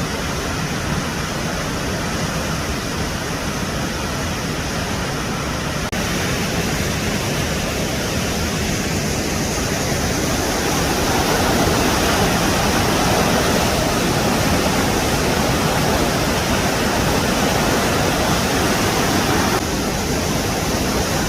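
Cascade Falls, a waterfall, giving a steady, loud rush of falling water. The rush changes abruptly in character twice, about six seconds in and near the end.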